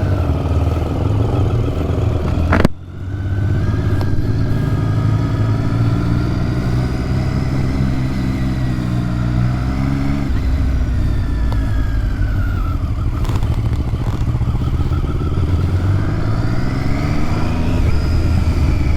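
Motorcycle engine running under way, its note rising and falling as the revs change, with a brief break about three seconds in.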